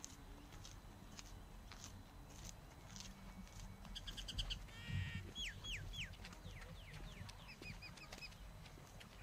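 Birds calling in the trees: a quick run of short high chirps, then three falling whistled notes about five and a half seconds in, and another run of short notes near the end. Beneath them, the walker's steady footsteps, about two a second, are heard in the first half.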